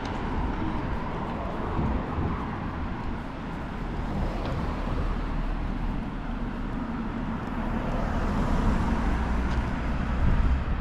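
Road traffic outdoors: a steady low rumble of passing vehicles that swells near the end.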